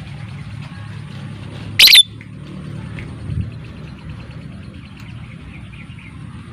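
A lovebird gives one short, loud, shrill call about two seconds in, with faint chirping around it over a steady low hum.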